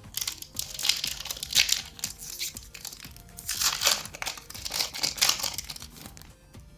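A foil Pokémon booster pack wrapper being torn open and crinkled in the hands, in several crackly bursts, with music playing underneath.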